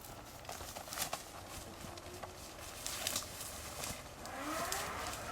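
Faint outdoor background with a handful of scattered small clicks and crackles.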